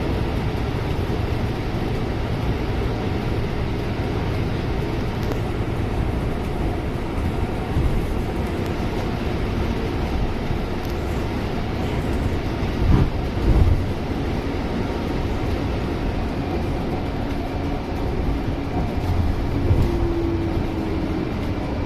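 Cabin noise inside a Scania C250EB bus: a steady rumble of the running engine and drivetrain. There are two short knocks about 13 seconds in, and a faint steady tone comes in near the end.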